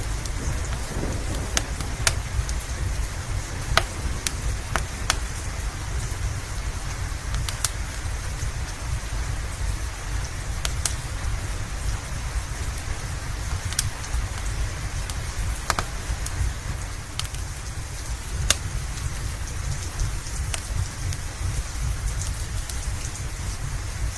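Steady rain with a deep low rumble underneath, and a wood fire's sharp crackles and pops coming irregularly about once a second.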